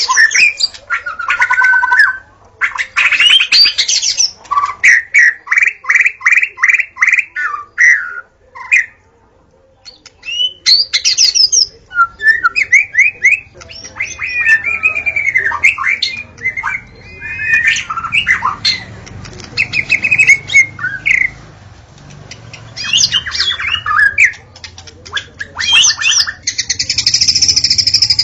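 White-rumped shama (murai batu) singing a loud, varied song: whistled phrases, sliding notes and runs of rapid repeated notes, with a brief pause about nine seconds in.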